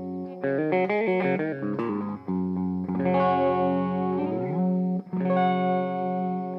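Electric guitar played through a pocket power amp with an EF95 mini-pentode tube stage and class D output, into an 8-ohm Celestion speaker. A chord rings, then a quick run of single notes comes in about half a second in. After that a chord is held with a note sliding upward near four seconds, and a fresh chord is struck about five seconds in.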